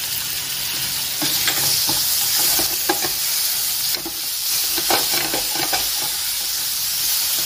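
Grated raw mango, peanuts and dal frying in oil in a pan, sizzling steadily, while a wooden spatula stirs and scrapes across the pan in repeated short strokes from about a second in.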